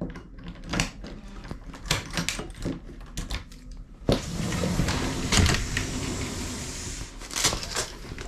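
Curtains and covers being handled aboard a boat: a run of quick clicks and knocks, then about three seconds of a loud, even scraping rush about halfway through, then more clicks.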